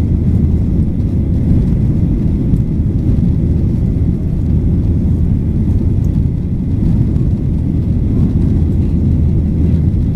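Boeing 737-800 cabin noise: a steady low rumble of its CFM56-7B jet engines and airflow, heard from inside the passenger cabin.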